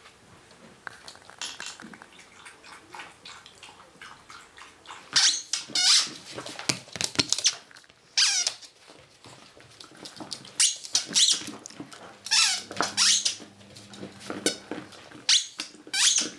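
Dog chewing a squeaky rubber toy, setting off short, high squeaks in irregular clusters with pauses between.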